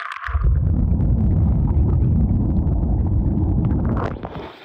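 Loud, muffled low rumble of water as the microphone goes under in a waterfall's plunge pool after a jump. It starts just after a short splash and stops suddenly near the end.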